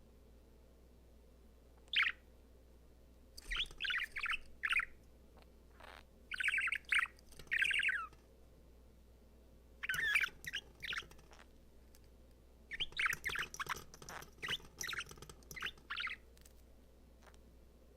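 Male budgerigar warbling and chirping in short bursts of quick, rapidly varying notes, with pauses of a second or two between them. Bursts come about two seconds in, around four to five seconds, around seven seconds, at ten to eleven seconds, and a longer run from about thirteen to sixteen seconds.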